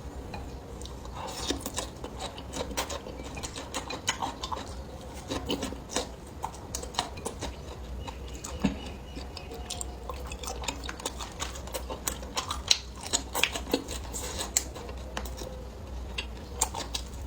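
Eating sounds: utensils clicking and tapping against dishes, with close-up chewing and many light clicks scattered through.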